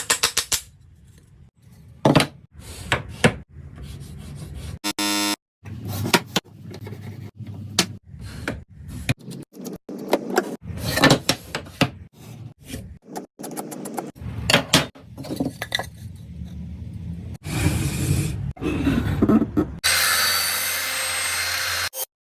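Woodworking tool sounds in short, abruptly cut clips: a string of sharp knocks and taps on wood alternating with scraping and rubbing. A steadier, hissy machine-like noise takes over near the end.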